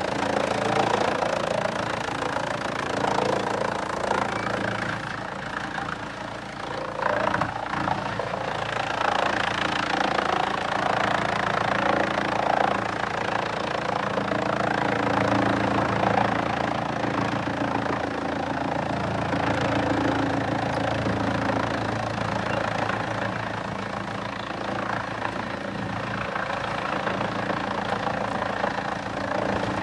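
Engine-driven sawmill chipping machinery running steadily: a continuous engine note with a rough, grinding noise over it.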